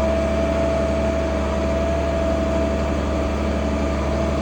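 International 1566 tractor's turbocharged six-cylinder diesel engine running steadily, with a constant hum and a steady whine over it.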